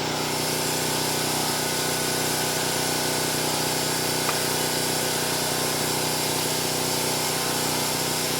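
A machine running steadily, an even hum and hiss that does not change, with a faint click about four seconds in.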